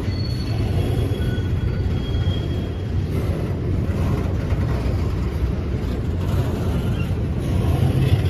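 A train rolling past with a steady, low rumble.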